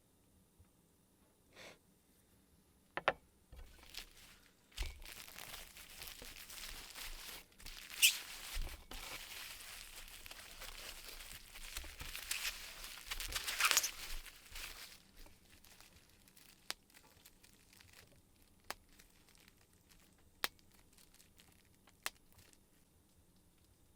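Rustling, crinkling handling noise like something being torn or crumpled, for about ten seconds with two louder tears, then sparse sharp clicks about every two seconds.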